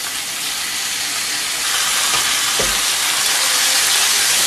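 Seasoned chicken breasts sizzling in oil in a cast-iron skillet over low heat, a steady hiss that grows a little louder about halfway through. There is a single soft knock just after the middle.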